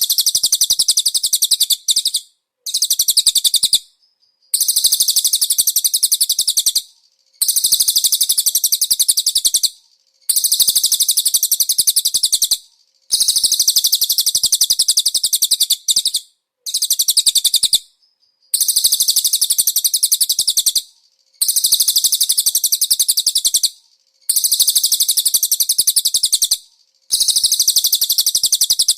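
Cililin bird song: very rapid, high-pitched trilled phrases, each about two to three seconds long, repeated over and over with brief pauses between them.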